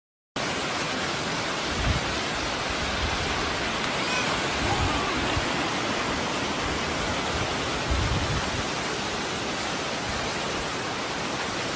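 Steady, even rush of water, either heavy rain or floodwater running, starting suddenly about half a second in, with a few low thuds underneath.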